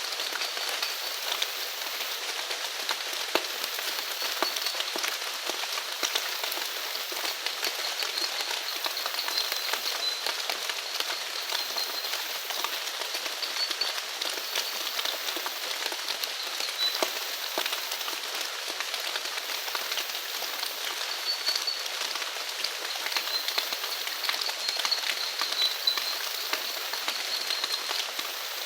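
Steady rain falling, a dense patter of individual drops hitting surfaces. Faint short high chirps from small animals come and go in the background.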